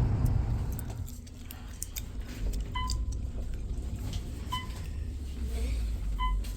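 Low rumble of a car, with a short electronic beep sounding three times about two seconds apart, and light clicks and jingling.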